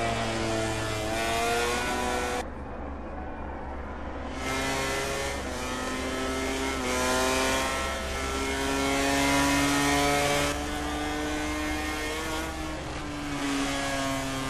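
MotoGP racing motorcycle engines revving hard. Several times the pitch climbs and then drops back, as at gear changes, and a few times the sound changes abruptly.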